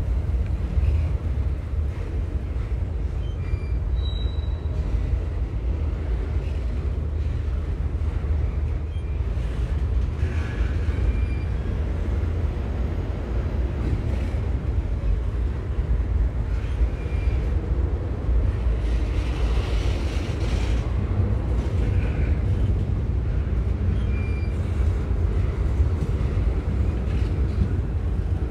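Freight train rolling past, a steady low rumble of rail cars on the track with a few faint short squeaks.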